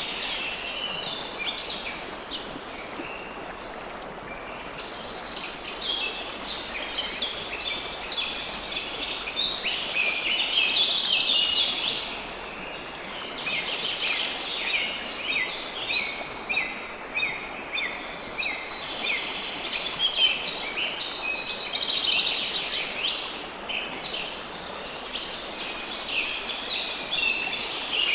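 River water flowing with a steady rush, under dense, rapid chirping of many birds. The chirping thins out a few seconds in, then picks up again.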